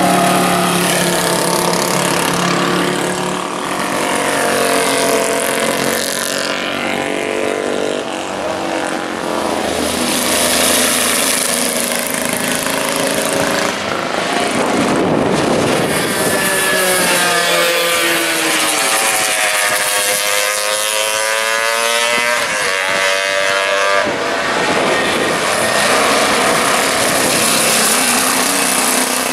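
Vintage racing motorcycle engines running hard at race speed. Their pitch rises and falls with throttle and gear changes, over a steady rush of wind and road noise.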